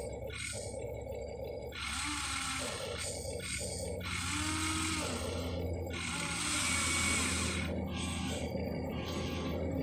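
Small electric motors and plastic gearboxes of a Huina 1593 RC excavator whining in short runs that start and stop as its functions are worked, over a steady low hum.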